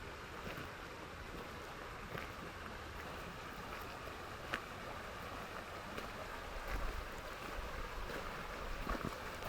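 Serpis River water rushing steadily, with a few faint scattered clicks over it and a brief low rumble about seven seconds in.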